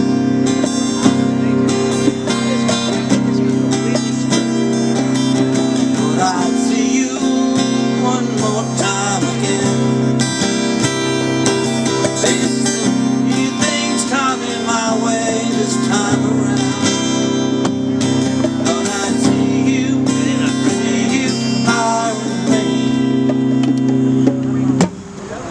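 Music: acoustic guitar strumming and picking chords over steady held bass notes, with no words sung.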